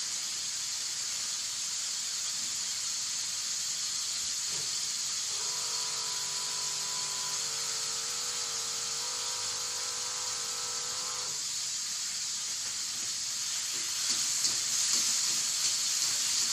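Vegetables and shrimp sizzling in a wok over a gas burner, a steady hiss of frying and steam. A faint steady hum of several tones comes in for about six seconds midway. Near the end the sizzling gets a little louder and uneven.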